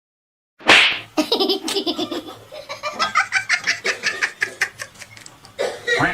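A sudden loud burst, then a person laughing hard in rapid repeated bursts, several a second, for about five seconds.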